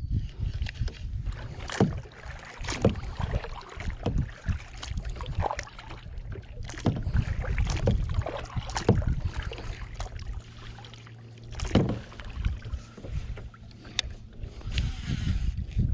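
Paddle kayak on the water: irregular splashes and knocks of paddle and gear against the hull, over a low wind rumble on the microphone.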